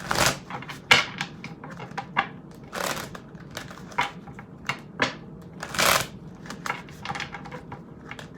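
Tarot cards being shuffled and handled: irregular clicks and taps of the cards, with three short swishes of the deck, one at the start, one about three seconds in and one about six seconds in.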